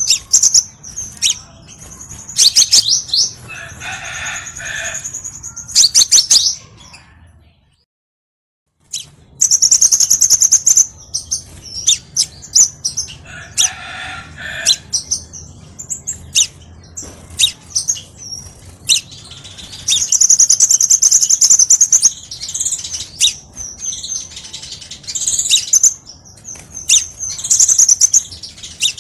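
Crimson sunbird (kolibri sepah raja) song: rapid high-pitched chirps, ticks and trills, broken by a brief gap of silence about eight seconds in.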